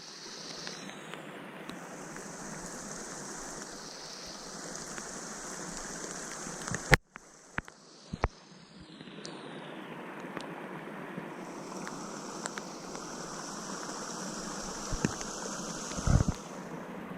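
Steady rushing of water, with a few sharp knocks or taps about seven to eight seconds in and again near the end.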